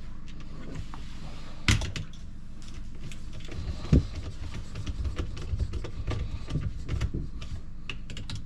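Clicks and knocks of hands working on a dishwasher drain pump and its plastic fittings, with two sharper knocks, one under two seconds in and one about four seconds in, then a run of small clicks over a steady low hum.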